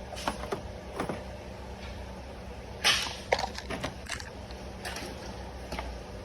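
Scattered clinks and knocks of metal tools and parts being handled during a tune-up, the loudest about three seconds in.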